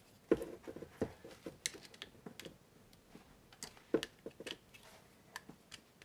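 Light, irregular clicks and ticks of copper wire and a screwdriver against a plastic wall outlet receptacle as the wire is pushed around a terminal screw and the screwdriver is set to the screw.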